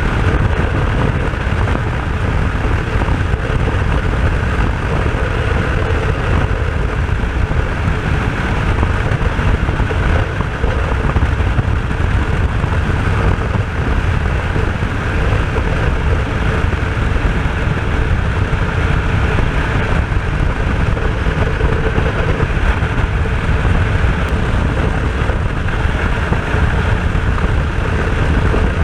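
RS250 two-stroke V-twin motorcycle engine running under way, mixed with heavy wind noise buffeting the microphone; the sound stays steady, with no sharp revs or stops.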